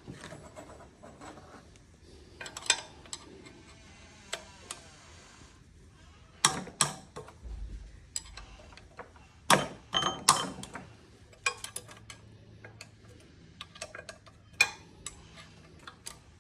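Metal hand tools and engine parts clinking, clicking and knocking during a small-engine teardown, with a few loud metallic knocks and some ratchet-like clicking.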